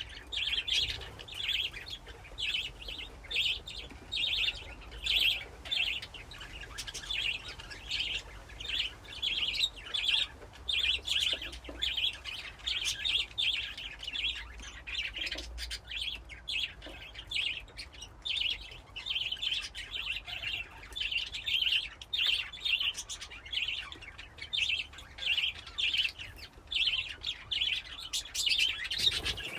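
A colony of budgerigars chirping and warbling together, a dense run of short, quick chirps that overlap and go on without a break.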